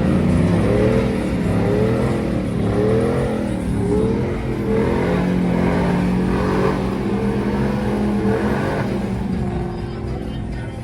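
Vehicle engine revving over and over, its pitch rising and falling about once a second over a steady low engine drone, easing off near the end.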